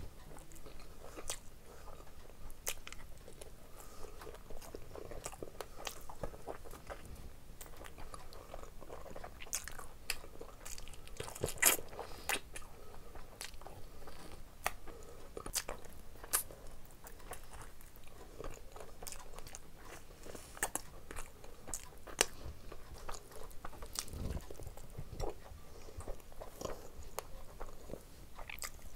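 A person biting and chewing a curried chicken drumstick off the bone, with many sharp crunches and crackles scattered through the chewing. The loudest crunch comes about twelve seconds in.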